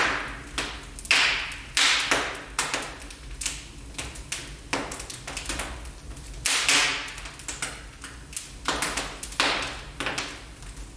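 Wood fire crackling in a fireplace, with frequent sharp pops and snaps at irregular intervals.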